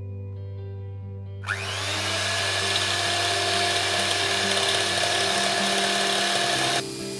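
Electric mixer whisking eggs for sponge batter: the motor spins up with a rising whine about a second and a half in, runs steadily at high speed, then switches off abruptly near the end.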